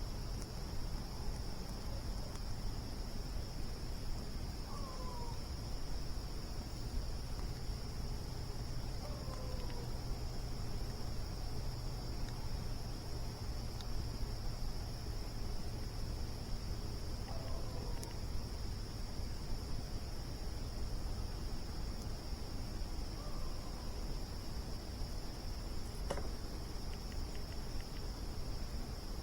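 Steady chorus of crickets, one continuous high trill, over a low rumble. A few faint short falling calls come and go, and a single sharp pop sounds near the end.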